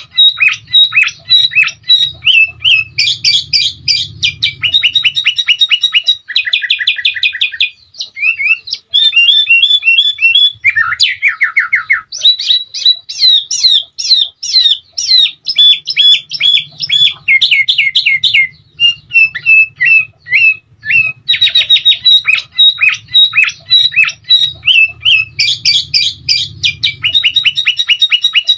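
Sooty-headed bulbul (kutilang) song: loud, continuous chattering phrases and fast rolling trills, with only brief pauses, a little past a third of the way through and about two-thirds of the way through.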